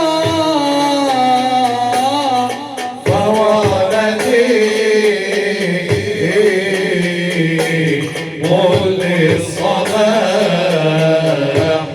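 Arabic nasheed: an ornamented, gliding sung melody with Middle Eastern musical accompaniment. It breaks off briefly about three seconds in and fades away at the very end.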